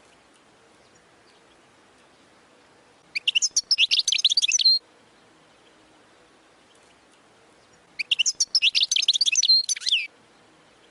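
European goldfinch singing: two phrases of rapid, high twittering notes, each lasting under two seconds, the first about three seconds in and the second about eight seconds in.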